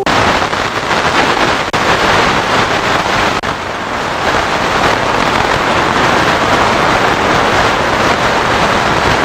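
FM radio receiver static: a steady, loud hiss with no station, starting abruptly as a station's organ music drops out, with a couple of brief dropouts along the way.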